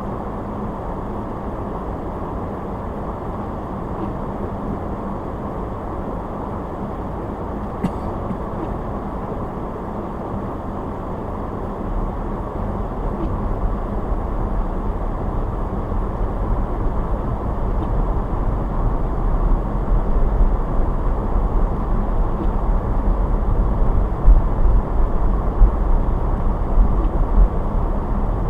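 A car driving, with steady road and tyre noise. About halfway through, a deep low rumble comes in and the noise grows gradually louder. There is a single faint click about eight seconds in.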